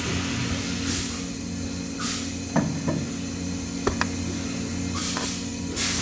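Steady electrical machine hum in a welding workshop, broken by four short hisses and a few sharp clicks and knocks.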